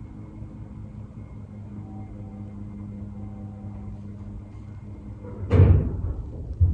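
A steady low hum, then one loud heavy bang from construction work in the building about two-thirds of the way through, heard through the apartment's walls or floor, with a shorter thump near the end.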